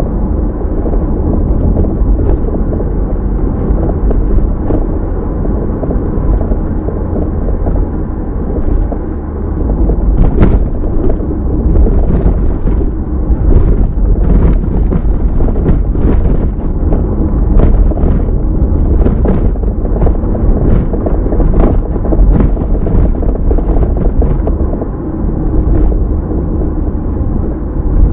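Car driving on the road, heard through the dashcam's own microphone: a steady, loud low rumble of tyres and engine, with frequent short clicks and knocks over road bumps.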